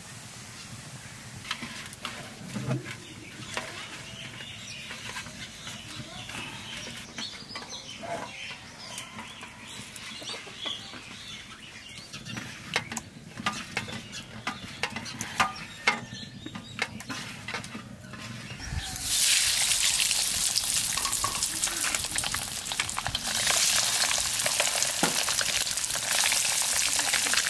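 Hands handling spice-coated boiled eggs on a steel plate, with scattered light clicks and taps. About nineteen seconds in, a loud sizzling starts as the eggs go into hot oil in a steel wok, and keeps going.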